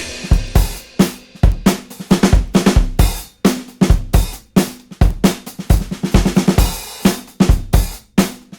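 Rock drum kit playing alone in background music: a steady beat of kick drum, snare and cymbal hits, with the guitars and other instruments cutting out at the start.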